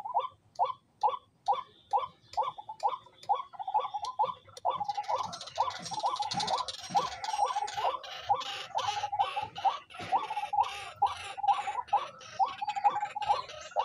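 A bird giving a rapid series of short, sharp call notes, about three a second, kept up without a break. Rustling noise joins in from about five seconds in.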